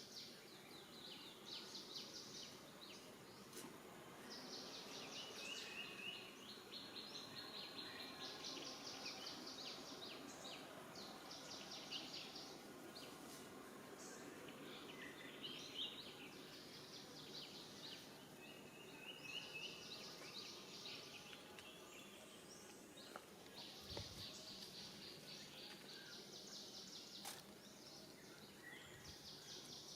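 Faint outdoor ambience: small birds trilling over and over in short high-pitched phrases, over a low steady murmur, with one low thump about 24 seconds in.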